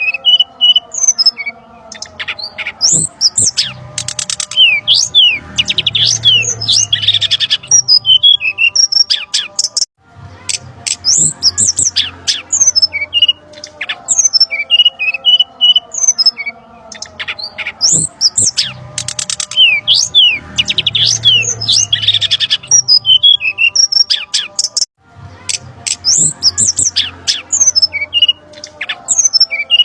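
Bird-lure recording of brown-chested jungle flycatcher calls: busy, agitated chirps, squawks and a quick trill, looped so the same passage repeats about every 15 seconds, with a brief dropout at each splice.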